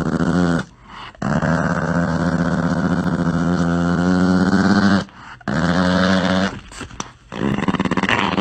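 A dog growling in long, drawn-out stretches with a rapid rumbling pulse, wavering in pitch, broken by three short pauses.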